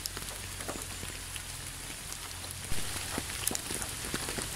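Steady rain falling, with scattered individual drops ticking. It gets slightly louder a little past the middle.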